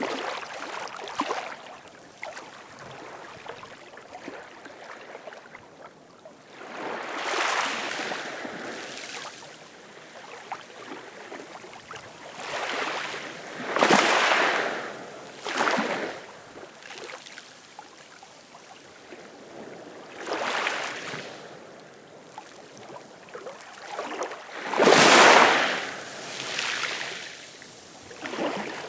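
Ocean waves breaking and washing back, one swell about every six seconds, the loudest about halfway through and near the end.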